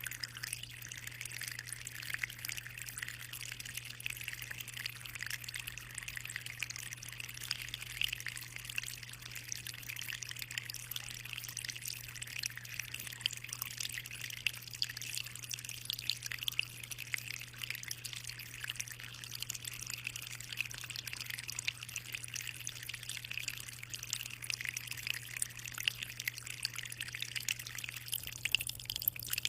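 Aquarium water trickling and splashing steadily at the surface, a constant fine patter with no pauses, over a steady low hum.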